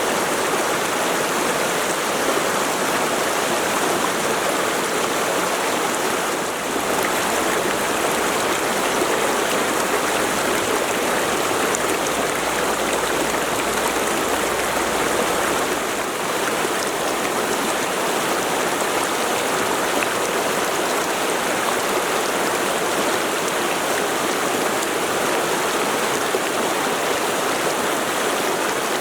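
Mountain river flowing: a steady rush of water, dipping briefly twice.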